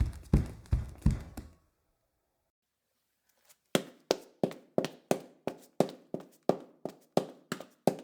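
Footsteps of a person running, about three steps a second, deep and bass-heavy, stopping about a second and a half in. After two seconds of silence a second running-footsteps recording starts, with sharper, lighter steps at the same pace.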